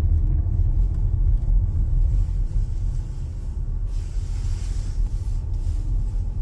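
Steady, fluctuating low rumble, with a faint hiss about four seconds in.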